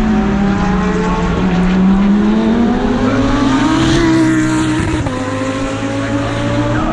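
GT3 race car engine heard onboard, easing slightly, then pulling hard with a rising pitch, shifting up about five seconds in and climbing again.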